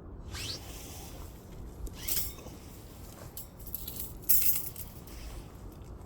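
Firewood burning, crackling and popping in irregular sharp snaps, with a louder burst of crackle just past four seconds.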